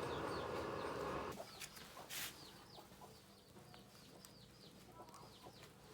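A steady machine noise cuts off abruptly about a second in. After it, small birds chirp repeatedly in short falling notes, with a brief hiss about two seconds in.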